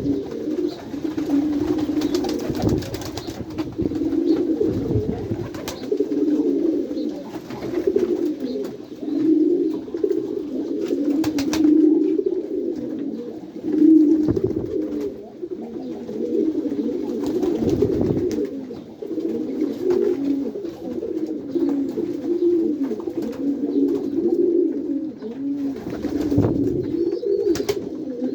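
A flock of domestic pigeons cooing in a loft, many low coos overlapping into a continuous warbling murmur, with occasional short knocks or clicks among them.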